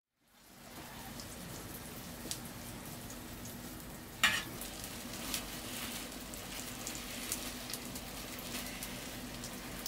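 Hotteok (Korean sweet pancakes) sizzling as they shallow-fry in oil on a flat steel griddle, fading in over the first second, with scattered small ticks and one sharp knock about four seconds in.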